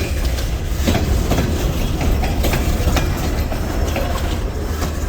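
Freight train rolling past at close range: a steady low rumble with wheels clicking irregularly over the rail joints.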